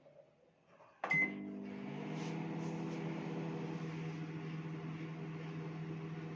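Godrej microwave oven started: a click and a short beep about a second in, then the steady hum of the oven running, as it is test-run to check that it heats after a repair.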